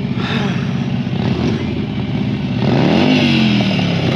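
Motorcycle engine idling, then revved once about two and a half seconds in, its pitch rising and falling back.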